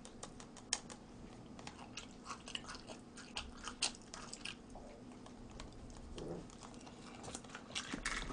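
Faint mouth sounds of a person eating: chewing with scattered small wet clicks and smacks, a couple of them sharper than the rest.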